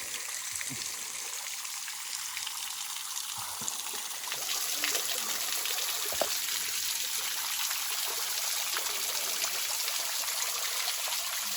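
Steady rush and trickle of running water from the karst-spring-fed streams and falls, growing louder about four seconds in.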